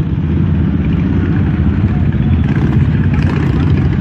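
Motorcycle engine running steadily, a loud, dense low rapid pulsing.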